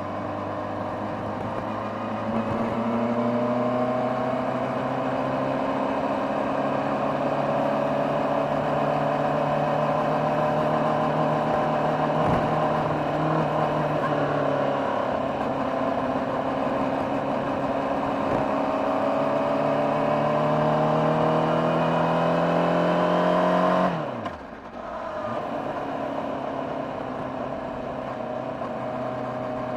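Honda CBR600RR's inline-four engine and stock exhaust heard on board, pulling under throttle with the revs climbing slowly. About three-quarters of the way through, the throttle shuts, the pitch and level fall away suddenly, and the engine settles into a lower, steady run.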